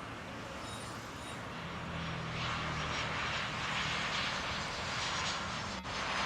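Jet airliner engines running, a steady rushing roar with a low hum that grows louder about two seconds in.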